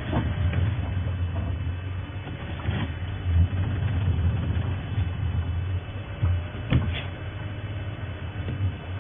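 Safari game-drive vehicle's engine running with a steady low rumble, with a few short knocks and rattles about three and seven seconds in.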